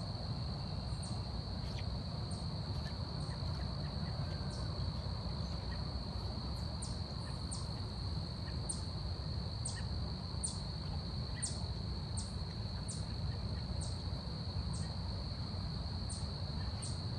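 Forest insect chorus: a steady, unbroken high-pitched insect drone, with short high chirps repeating about once or twice a second, over a low steady rumble.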